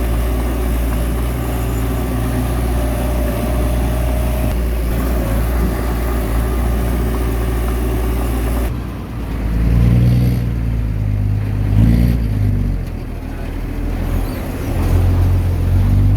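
Heavy earthmoving machinery's diesel engine running steadily. About nine seconds in the sound changes abruptly to an engine note that rises and falls several times as the machine works.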